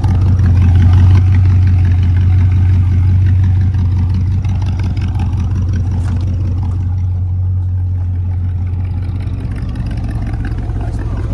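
1972 Corvette's 350 small-block V8 running while the car is driven, a steady low engine drone that is loudest about a second in and then eases off gradually.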